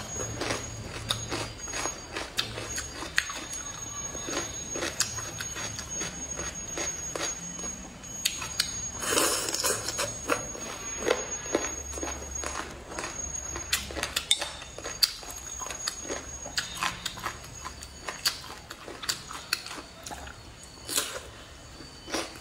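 Close-miked chewing of boneless chicken feet and cucumber: a run of short wet clicks and crunches, with a longer, louder noisy smack about nine seconds in. A faint high steady tone runs under it until about fourteen seconds in.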